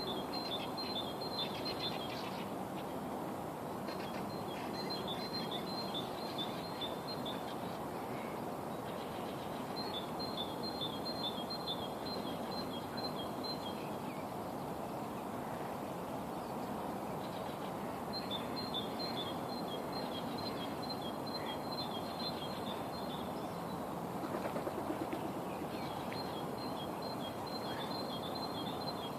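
A songbird singing the same phrase of quickly repeated high notes, each phrase lasting about three to four seconds and repeating about every eight seconds. A steady low background noise runs under it.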